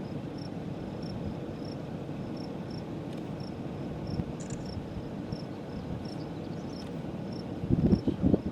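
Crickets chirping steadily, about two chirps a second, over a steady low rumble of wind noise. A few loud low rumbles come near the end.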